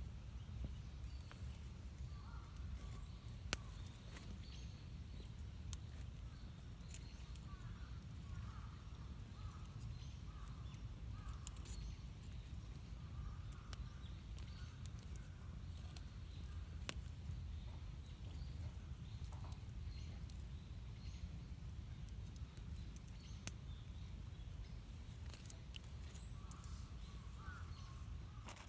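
Faint outdoor ambience: scattered small sharp clicks and pops, with a stronger one a few seconds in, and brief high chirps in a few short runs, over a steady low rumble.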